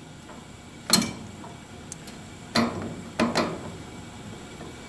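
A few sharp clicks and taps of handling, one about a second in and three more between two and a half and three and a half seconds, over the faint steady hum of the running gas furnace.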